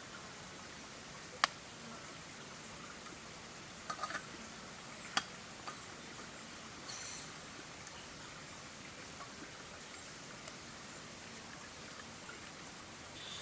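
Faint steady background hiss broken by a few short, sharp clicks or taps, with a brief high chirp about seven seconds in.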